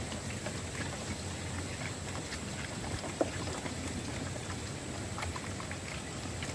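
Steady patter of falling water drops with many small scattered ticks, and one sharper tick about three seconds in.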